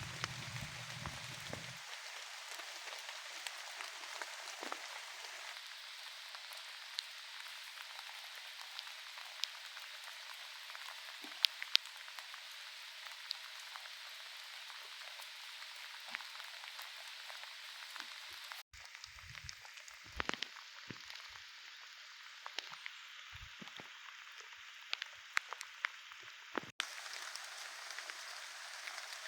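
Steady rain falling, with scattered sharper drop ticks over an even hiss. The background shifts abruptly twice, about 19 and 27 seconds in.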